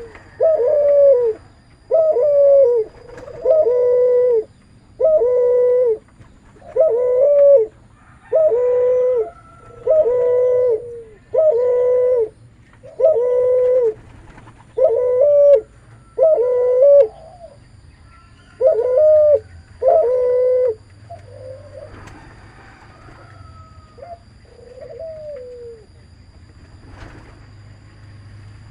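Cuhu, a hybrid of a spotted dove (derkuku) and a Barbary dove (puter), cooing over and over at about one coo a second. After about two-thirds of the way through it falls to a few softer, shorter coos, then goes quieter.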